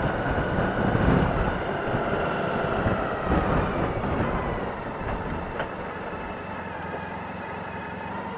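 Honda Pan European ST1100's V4 engine running while the bike is ridden, with steady wind and road noise. The sound gets quieter about halfway through.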